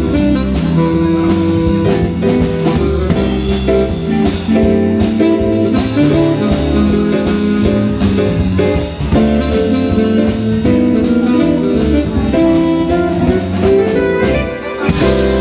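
Jazz band playing, with a drum kit keeping time under held melody notes.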